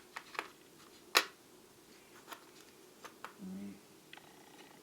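Scattered clicks and light taps of small metal lathe tool bits being handled, with one sharp click about a second in. A brief hum of a man's voice is heard a little past the middle.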